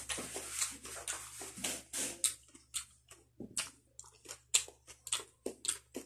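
Close-up wet chewing and lip-smacking of a mouthful of grilled fish: a run of irregular short smacks, thicker and wetter in the first second.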